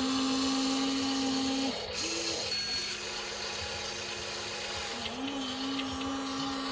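Small electric motors of a radio-controlled construction toy whining steadily, pausing briefly about two seconds in and shifting pitch as the drive changes.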